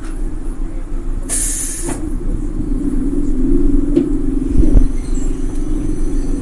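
Eizan Electric Railway train running, a steady low rumble and hum, with a short hiss about a second and a half in and a couple of faint knocks later on.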